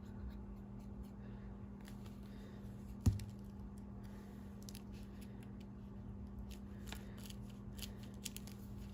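Scissors snipping paper in small, quiet cuts, with one sharp tap about three seconds in.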